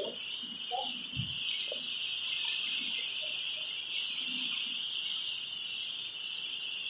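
Steady chorus of insects, like crickets, trilling without a break, with a short dull thump about a second in.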